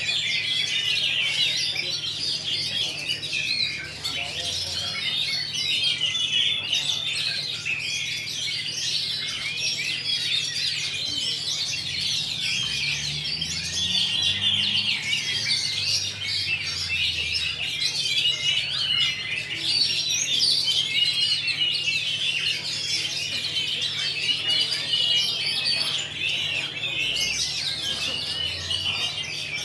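Several caged oriental magpie-robins (kacer) singing at once: a dense, continuous tangle of quick, varied song phrases, with a steady low hum underneath.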